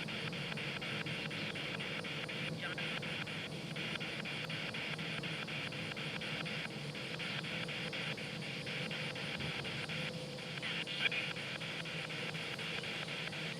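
Spirit box scanning through radio stations: choppy static that cuts in and out in a very regular rhythm several times a second, with a brief louder blip near the end.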